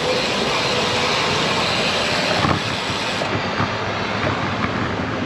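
Wind rushing over an action camera's microphone, mixed with tyre and road noise from a road bike being ridden, with a brief bump about halfway through.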